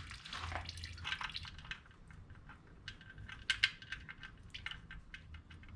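Hand tools clicking and clinking against metal in irregular light taps, while the oil filter is being worked loose.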